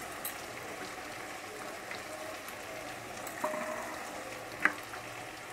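Potatoes, onions and tomatoes frying in oil in a metal wok (kadai), a steady sizzle. A single sharp click stands out about four and a half seconds in.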